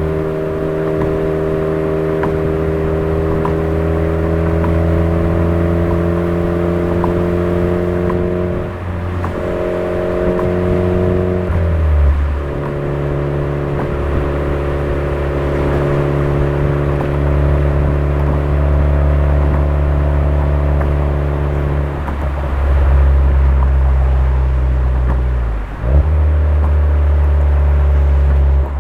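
Exhaust note of a Suzuki Swift Sport ZC33S's 1.4-litre turbocharged four-cylinder through a Fujitsubo aftermarket muffler, cruising at a steady drone. The pitch shifts a few times, and there is a brief drop and recovery near the end.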